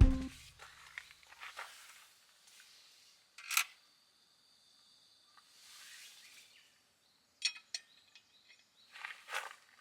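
Scattered light clinks and taps of camp cookware and utensils being handled, a few seconds apart, over quiet outdoor background.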